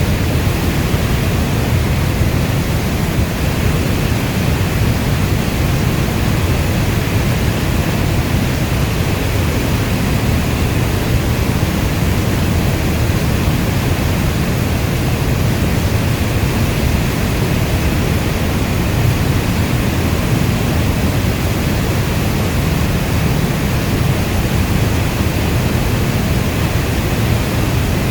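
Steady heavy rain: an even, unbroken hiss weighted toward a deep low rumble, with no single drops or thunder standing out.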